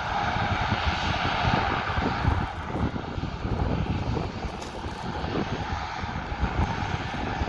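Fixed-wing aircraft engines running, a steady rushing noise over an uneven low rumble that eases a little midway through.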